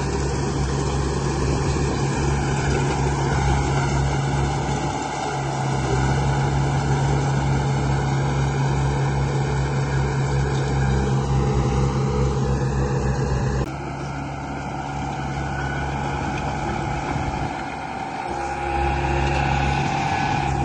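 A radio-controlled model construction vehicle running: a steady engine-like drone with motor whine on top. The sound changes abruptly about 14 s in, dips briefly near 18 s, then picks up again.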